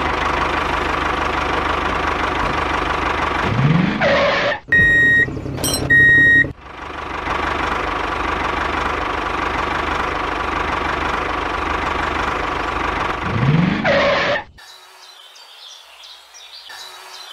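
Tractor-type engine running steadily, its pitch rising briefly near 4 seconds and again near 14 seconds. Two short high-pitched beeps come around 5 and 6 seconds, and the engine sound cuts off about 14.5 seconds in, leaving a much quieter background.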